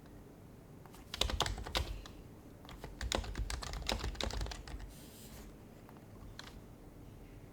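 Typing on an HHKB Professional Hybrid Type-S keyboard with silenced Topre switches: two short runs of keystrokes about a second in and about three seconds in, then a single click near the end.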